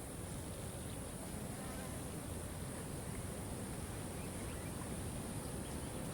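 Steady rushing of a waterfall, with an insect buzzing over it.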